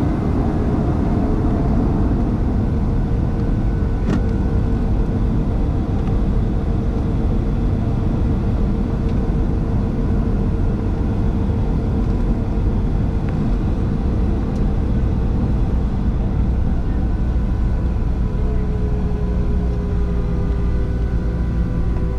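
Boeing 737-700 cabin noise: the CFM56-7B jet engines and airflow make a steady rumble with a constant hum tone, which eases slightly lower near the end.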